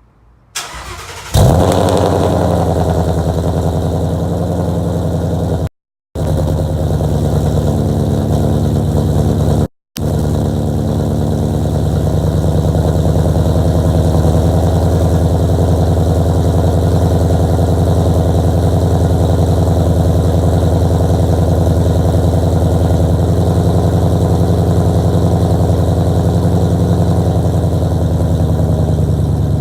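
2016 Ford Mustang GT's 5.0 V8, fitted with long-tube headers, an off-road X-pipe and a 3-inch Magnaflow Competition catback, cold-started: a brief crank, then the engine catches with a loud flare and settles into a steady, loud high idle. The sound cuts out completely twice for a moment in the first ten seconds.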